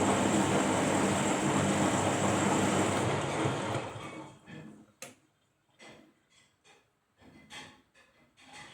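Washing machine running, a steady hum and drum noise that dies away about four seconds in. Several faint clicks and knocks follow.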